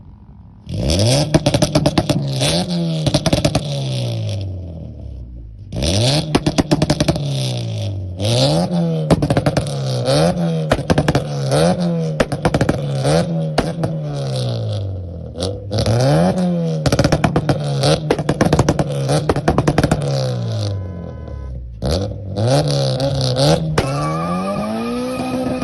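Modified 2.3-litre engine of a 1993 Honda Civic Ferio being revved again and again in quick blips, its pitch rising and falling about once a second. It pauses briefly twice and settles to a steadier, higher note near the end.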